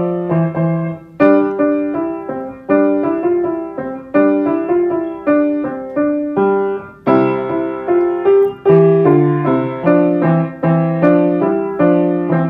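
A tune played on a piano keyboard: melody notes over lower bass notes, each struck and dying away, in a steady unhurried rhythm.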